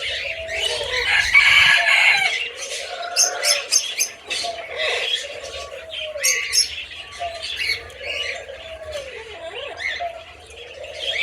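Several aviary birds calling at once: many short high chirps and calls, a dense burst of calls about one to two seconds in, and repeated low, swooping calls underneath.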